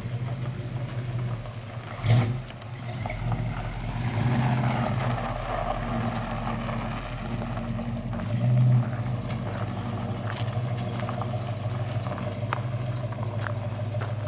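Car engine running steadily, with a sharp thump about two seconds in and a brief rise in the engine note near nine seconds.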